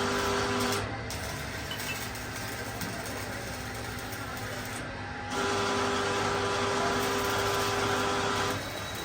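Heavy boring machine running while machining a steel pipe: a steady mechanical hum with a whine over it. The whine drops out about a second in, returns about five seconds in, and drops out again near the end.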